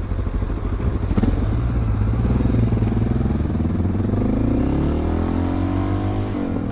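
Honda XR650L's single-cylinder engine pulling under acceleration while riding, its pitch climbing steadily for a few seconds and then dropping sharply near the end.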